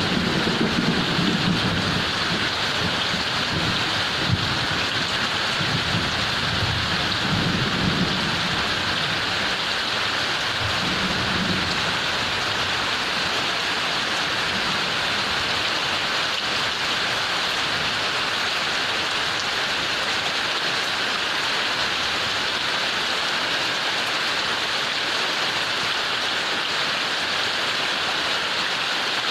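Heavy rain falling steadily, with low rolling thunder rumbling under it for the first twelve seconds or so and then fading away.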